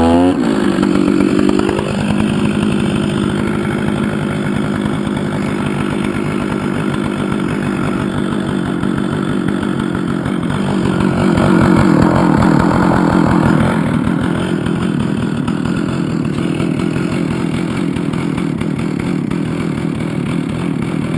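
Gas chainsaw running at high revs and cutting into the downed tree, its steady pitched buzz swelling for a few seconds about halfway through as the chain bites under load.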